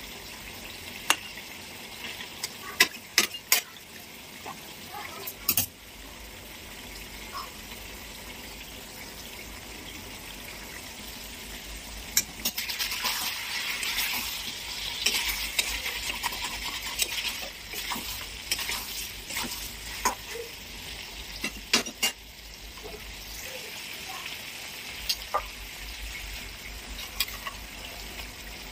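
Chicken and onions sizzling as they fry in a steel kadai. A metal spatula stirs and scrapes them, with sharp clinks against the pan every so often, and the scraping is busiest in the middle stretch.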